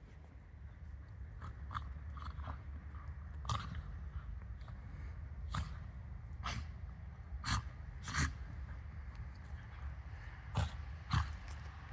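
Snow crunching in a dozen or so short, sharp, irregular crunches, over a steady low rumble of wind on the microphone in a snowstorm.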